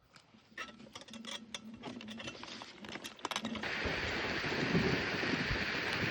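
Scattered light clicks and rattles, then from about three and a half seconds in a steady rush of wind noise on the microphone from riding an e-bike.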